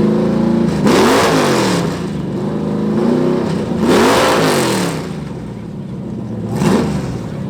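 Loud exhaust of a modified car revved hard three times in free rev, the pitch climbing and falling back each time. The first two revs are long; the third, near the end, is a short blip, with the engine idling between them.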